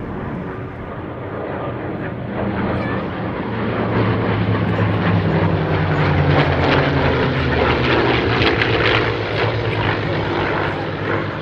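Piston-engined WWII fighters in a formation display passing overhead: P-51 Mustangs' Rolls-Royce Merlin V-12s and the P-47 Thunderbolt's radial engine. The engine drone grows to a peak in the middle, then eases off as they pull away.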